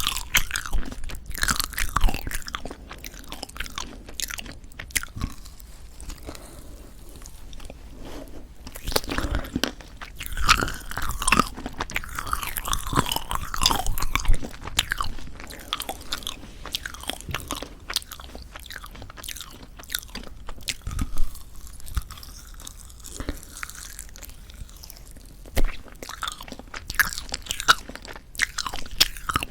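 Close-miked chewing of a tough, rubbery marshmallow pop, with sticky, squelchy mouth sounds and scattered sharp bites. The marshmallow has gone unusually tough and chewy from poor storage.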